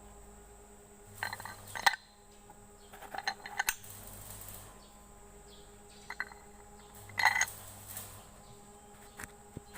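Metal pieces clinking and tapping against each other in several short bursts of clicks and knocks.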